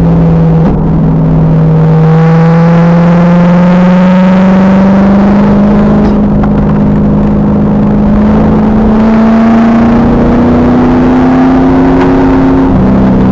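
Loud 5.7-litre LS1 V8 of a 2000 Pontiac Trans Am Firehawk pulling hard on stock exhaust, heard from inside the car. The revs climb slowly through the gear, and the note drops suddenly about a second in and again near the end as the six-speed manual is shifted.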